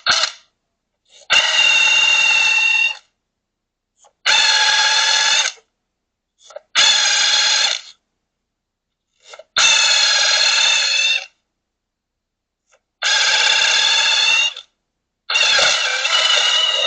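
Impact wrench run in short bursts of about a second and a half each, five or six times with brief pauses between, each burst an even rattling buzz that starts and stops abruptly.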